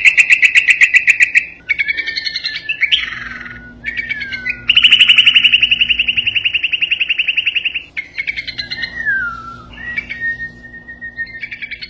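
A bulbul singing: loud, fast trills alternating with falling whistled notes, with one long trill of about three seconds in the middle.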